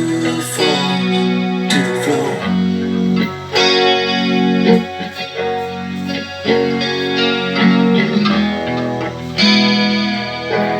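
Electric guitar played through a Zoom G5n multi-effects processor, ringing chords and sustained notes in a slow chord progression.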